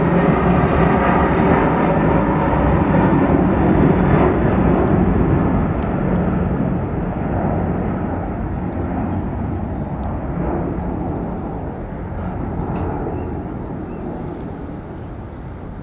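Four-engine jet noise from a Boeing 747 freighter climbing away after takeoff, a steady rumble that fades gradually as it recedes.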